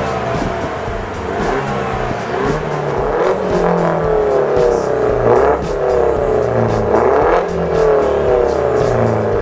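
Peugeot 208 GTi's 1.6 THP turbo four-cylinder revved in repeated blips about every two seconds, the revs falling away after each one. It plays through an Inoxcar Racing exhaust with the rear silencer removed.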